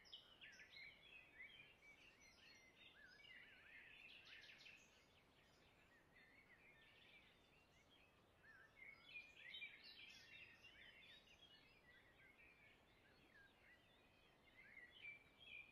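Near silence, with faint birds chirping and twittering in the background in short spells of quick, high chirps.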